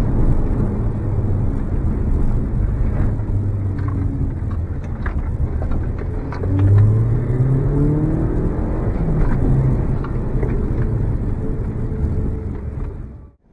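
Audi S3 8L's 1.8-litre turbocharged four-cylinder engine heard from inside the cabin while driving, its note rising as it accelerates a little past halfway, then easing off. The sound cuts off suddenly near the end.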